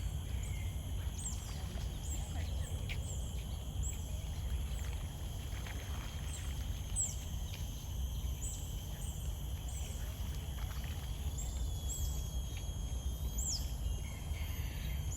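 Many small birds chirping in an aviary: short, high, quickly falling calls come every second or so over a steady low rumble.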